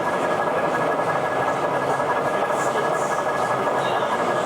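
Steady train running sound from a sound-fitted model locomotive, over the constant background noise of an exhibition hall.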